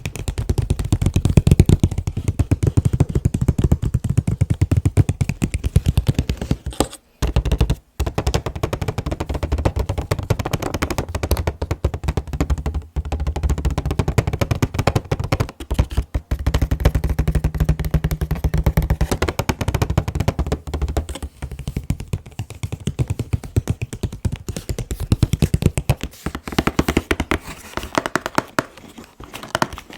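Fingers tapping fast and continuously on an anime figure's box, a dense stream of quick hollow taps with a few brief pauses, two of them about seven and eight seconds in.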